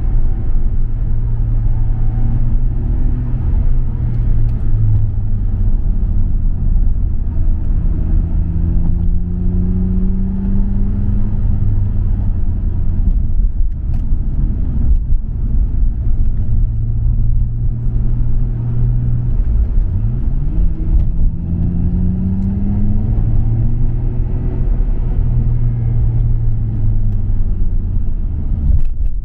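Nissan Skyline R34 GT-R's RB26 twin-turbo straight-six with a MINES exhaust, driven up a mountain road: a steady engine drone with the revs climbing twice under acceleration, around eight and twenty seconds in, and easing off briefly in between.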